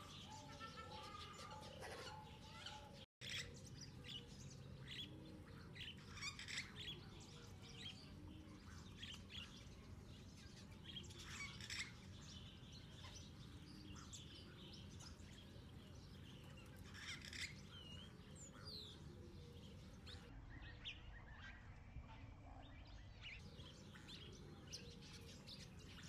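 Small birds chirping: scattered short, high chirps with a few quick gliding notes, faint, over a low steady hum.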